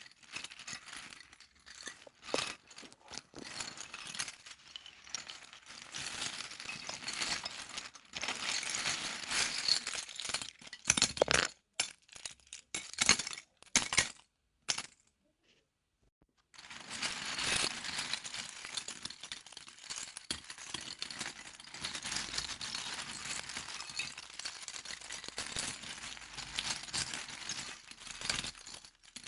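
Loose plastic Lego pieces rattling and clicking as they are handled and sifted, with a short silent break about halfway through.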